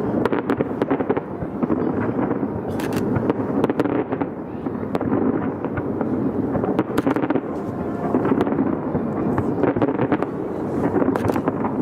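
Fireworks display: many sharp bangs and crackles going off in dense clusters over a continuous rumble.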